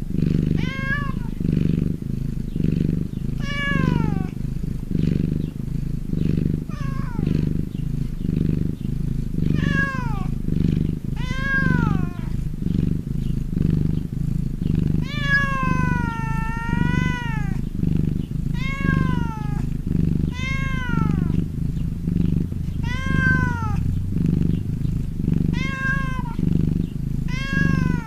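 Domestic cat meowing over and over, short rising-and-falling meows about every two seconds with one longer drawn-out meow near the middle, over continuous low purring.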